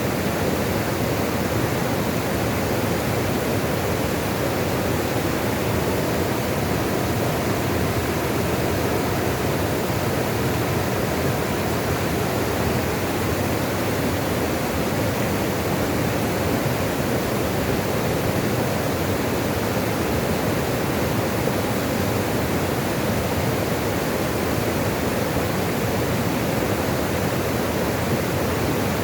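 Flowing water rushing steadily, an even, unchanging wash of sound with no breaks or distinct splashes.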